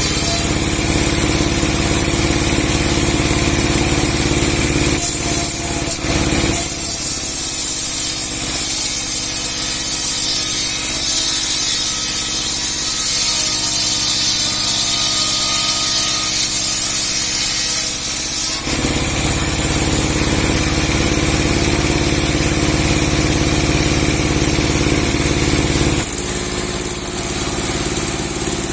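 Engine-driven sawing machine with a 60 cm steel saw blade, 30 hp and Chinese-made, running steadily. From about six seconds in until about eighteen seconds in the blade cuts through a large log with a steady hiss of sawing while the engine's low drone falls back. Then the machine runs on without cutting.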